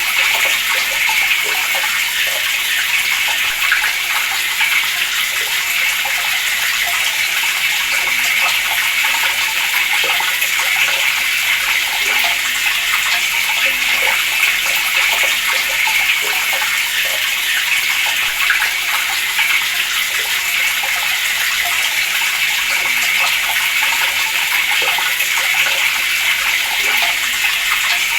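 Water running steadily from a tap, a continuous even splashing hiss with no change in flow.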